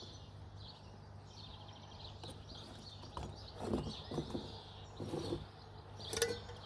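Birds chirping and singing over a faint steady outdoor hum, with a few soft knocks partway through.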